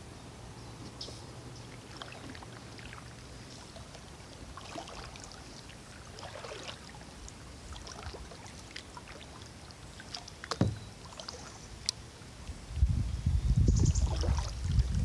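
Kayak paddle dipping into the water, with faint splashes and drips. There is a sharp knock about ten seconds in, and a loud low rumble near the end.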